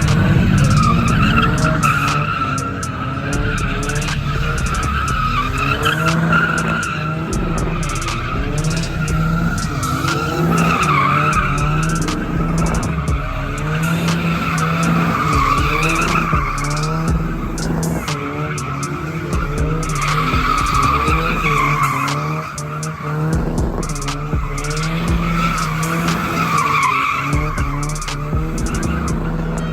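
Car tyres squealing without a break, the squeal swelling and easing every few seconds as a car is spun round in donuts, over the steady run of its engine.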